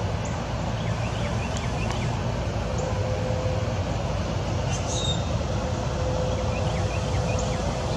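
Steady low outdoor rumble, with a few faint, short bird chirps in two brief runs and a faint steady hum in the second half.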